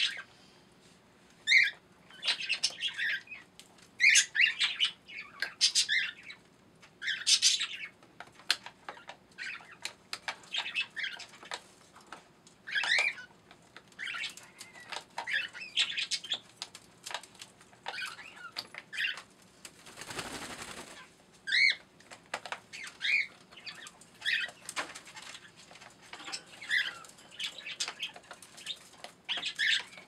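Caged pet birds chirping and squawking in short, repeated calls, with one brief rush of noise about twenty seconds in. Scattered light clicks come from the robot vacuum's plastic brush parts being handled.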